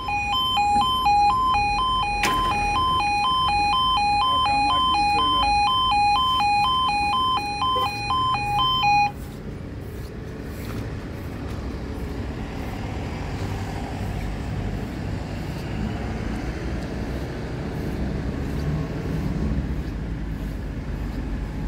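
UK level crossing's two-tone warning alarm, a rapid alternating high-low tone, cutting off suddenly about nine seconds in; after it a steady low rumble of motor vehicles.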